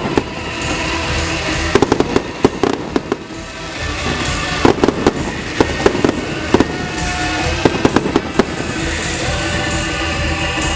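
Fireworks going off in three quick volleys of sharp bangs and crackles over a music soundtrack that plays throughout.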